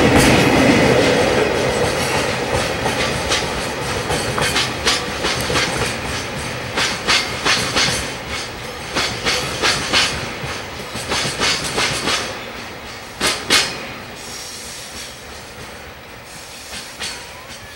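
Freight train of oil tank wagons hauled by double-headed EF64 electric locomotives, rolling away over rail joints. Its wheels click-clack in uneven clusters. A faint wheel squeal fades within the first second, and the whole sound grows steadily fainter as the train pulls away.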